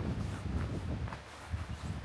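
Footsteps in snow along a hiking trail, uneven steps over a low, irregular rumble.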